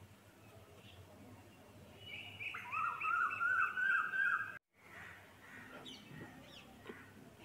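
A bird calling: a quick string of short rising notes lasting about two and a half seconds, which cuts off suddenly, followed by a few faint high chirps.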